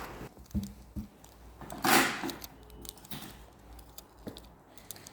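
Sheet of folded paper being handled: a half-second crinkling rustle about two seconds in, among light taps and clicks.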